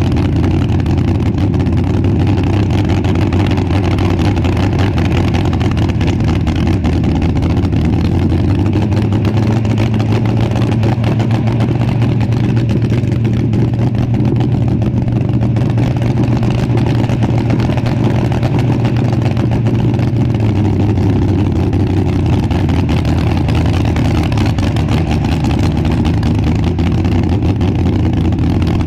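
A vehicle engine running steadily at a near-constant speed, its pitch rising slightly about a third of the way in and dropping back a few seconds before the end.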